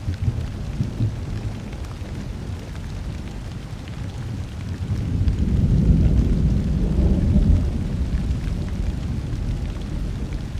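Steady rain falling during a thunderstorm, with a low roll of thunder that swells about halfway through and then slowly fades.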